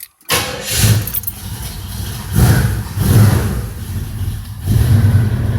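Pontiac 461 V8 (a 455 bored .030 over) with Summit 2.5-inch aluminized exhaust firing up cold: it catches about a third of a second in, surges unevenly a few times, then settles near the end into a louder, steady lumpy idle with the old-school "potato" cam lick.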